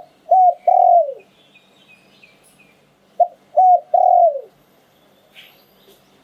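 Spotted dove cooing: two phrases of three low notes about three seconds apart, the last note of each longer and dropping in pitch at its end, in the 'liu tan' song style valued by Thai dove keepers. Faint higher chirps of small birds come between the phrases.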